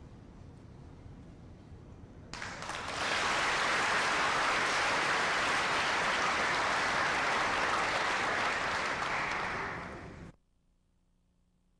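A group of people clapping, starting about two seconds in, holding steady for some eight seconds, then cut off abruptly.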